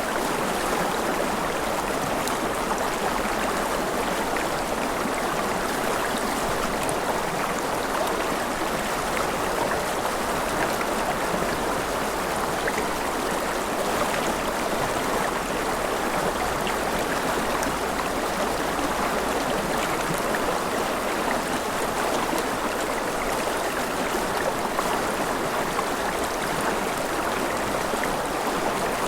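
Mountain river with rapids flowing steadily, a continuous rush of water.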